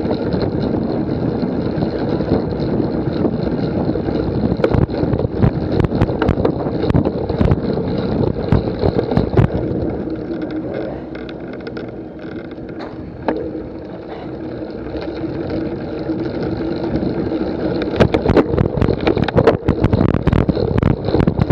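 Cyclocross bike rattling and rumbling over rough ground, with a steady rumble of wind on the microphone and many sharp knocks and clicks from the bike. It quietens for a few seconds midway, then the rattling picks up again near the end.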